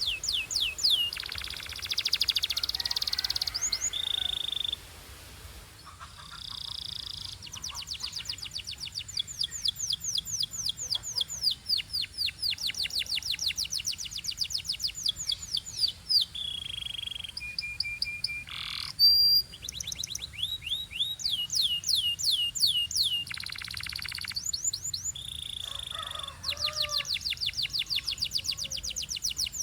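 Belgian canary singing: long runs of fast, repeated sweeping notes, broken now and then by short steady whistles and a few rapid rolling trills.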